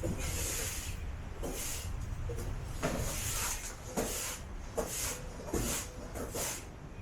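Broom sweeping the cargo floor of a box truck: about eight scratchy swishes at an uneven pace, with a few light knocks among them.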